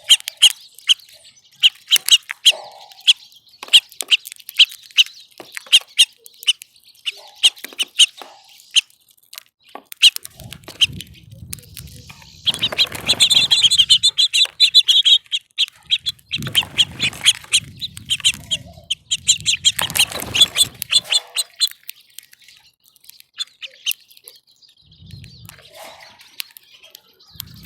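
Small songbirds at a feeder chirping, short calls in quick succession, with a stretch of rapid twittering about halfway through. A low rumble comes and goes underneath in the middle.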